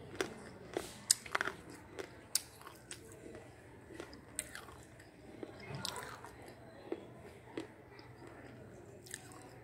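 Close-up chewing of a hard slate pencil: sharp, irregular crunches as the pieces are bitten and ground, loudest and most frequent in the first couple of seconds and sparser after.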